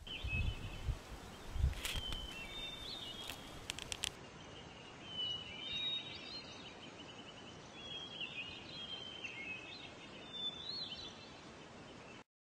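Small birds chirping over faint outdoor background noise, with low rumbles in the first couple of seconds and a few sharp clicks around two and four seconds in.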